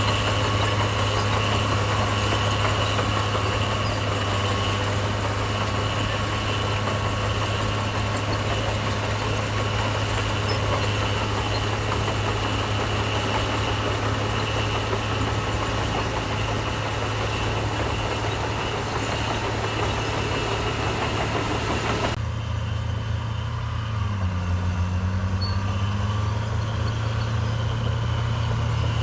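Heavy diesel engine of construction machinery running steadily with a low drone. About three quarters of the way through, the hiss above it drops away abruptly, and soon after the engine note dips briefly and rises back.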